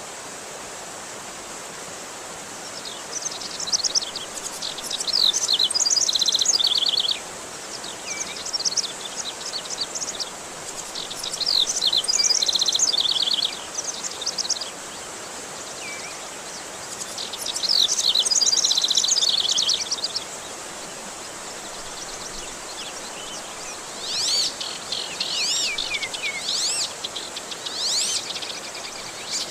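A songbird singing in bouts of fast, repeated high chirping phrases over a steady rush of running water.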